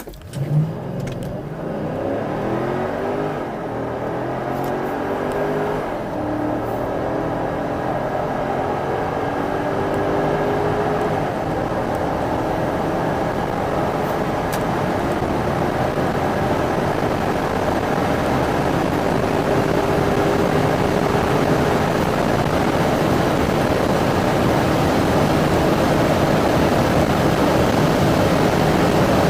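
V8 car accelerating flat out from a standstill. The engine note climbs and drops back at each upshift, the shifts coming further apart as speed rises, while a rushing wind and road noise grows louder toward high speed.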